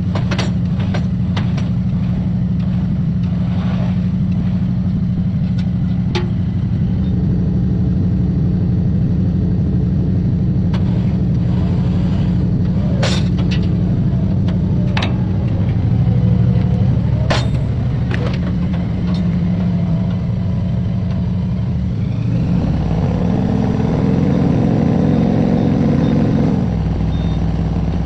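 Vehicle engine running steadily and low during an off-road truck recovery, with a few sharp knocks partway through. About two-thirds of the way in a higher strain builds for several seconds, then eases off.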